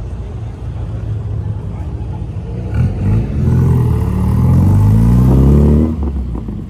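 Car engine idling with a low rumble, then revved: a short blip about three seconds in, then a long rev climbing steadily in pitch for about two and a half seconds before the throttle is let off suddenly.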